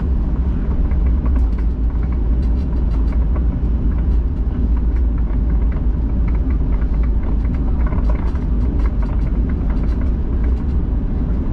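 Steady low rumble in the cabin of a Boeing 737-800 rolling along the ground after landing, with faint clicks and rattles scattered through it.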